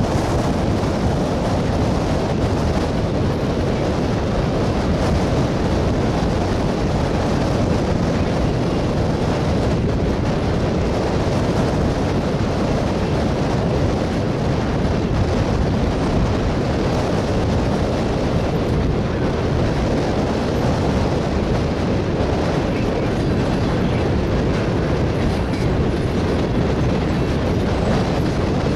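Railroad tank cars of an oil train rolling past, a steady rumbling noise of steel wheels on the rails.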